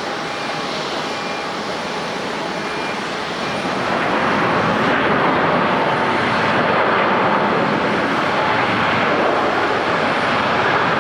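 Jet airliner engines running, a dense rush with a faint steady whine, growing louder about four seconds in and staying loud.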